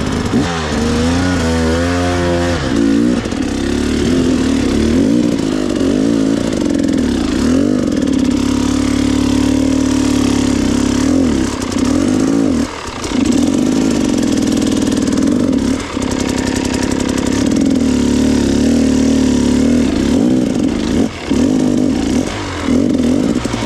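Trail motorcycle engine revving. It rises in pitch over the first few seconds, then runs under varying throttle, with three brief drops in level where the throttle is shut off.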